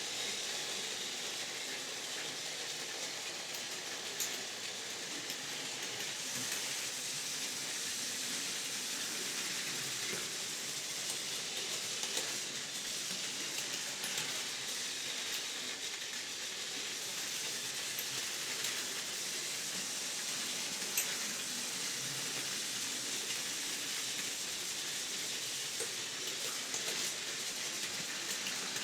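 Battery-powered Plarail toy trains running on plastic track: a steady whirring hiss with scattered faint clicks.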